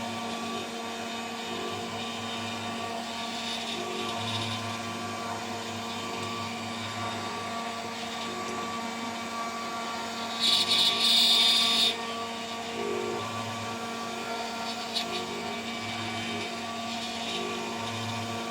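CNC router spindle running steadily at about 14000 RPM while a 3 mm three-flute end mill cuts, with a soft rhythmic rise every couple of seconds as the tool moves along its path. About ten seconds in, the cut turns louder and harsher for a second and a half.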